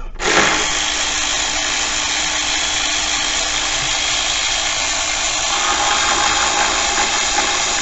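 Power tool running steadily for about seven and a half seconds, backing out a 10 mm bolt on the engine's intake. Its tone shifts slightly about two-thirds of the way through, and it stops abruptly.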